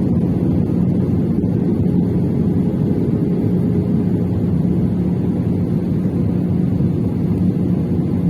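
Airliner cabin noise: a steady low rumble of engines and airflow, with a steady hum underneath.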